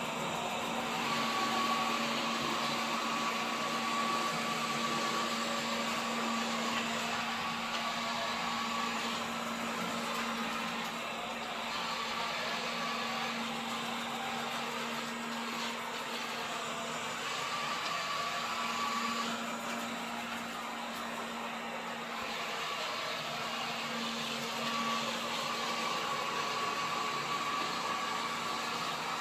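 Samsung robot vacuum cleaner running: a steady whir from its suction motor and brushes, with a low hum and a higher whine that come and go.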